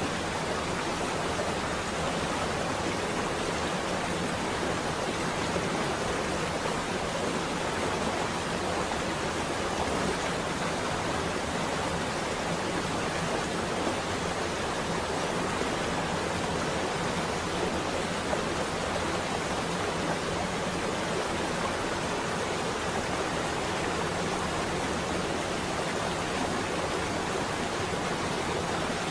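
Rain on a window, a steady, even hiss with no breaks.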